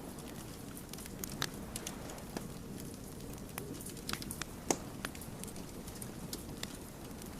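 Wood fire crackling: irregular sharp pops and snaps over a steady low rumble of burning logs, the loudest pop coming just past the middle.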